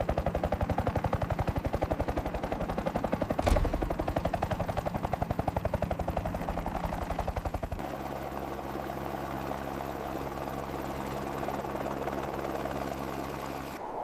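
Helicopter rotor chopping in fast, even beats, with a heavy thump about three and a half seconds in. About eight seconds in the chop gives way to a steadier engine hum.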